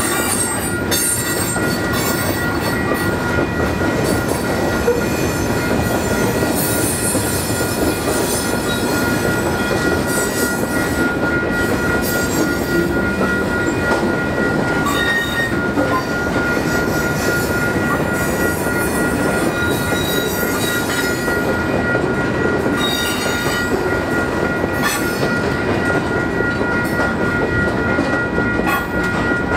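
Canadian Pacific train's cars rolling past, with steady wheel noise and clicks over the rail, and a continuous high-pitched squeal from the wheels.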